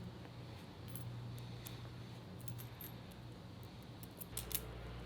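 Small steel nuts, lock washers and flat washers clinking faintly as they are handled and threaded onto roof-rack mounting bolts, with scattered light clicks over a steady low hum.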